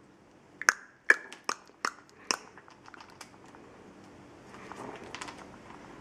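Cape parrot biting and chewing with her beak: about five sharp clicks in quick succession, then fainter ticks and a soft crunching patch a couple of seconds later.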